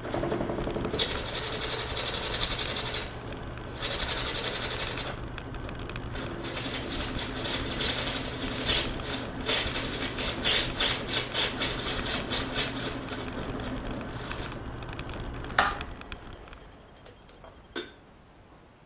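Metal lathe running and cutting steel, with a steady motor hum. There are two loud hissing cuts in the first five seconds, then uneven scraping as the tool works the piece. The machine shuts off near the end, with a sharp click at the switch-off and another click a couple of seconds later.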